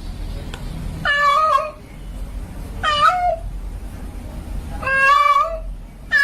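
Female domestic cat in heat calling for a male with drawn-out meows, three calls about two seconds apart and a fourth starting at the very end, over a low background rumble.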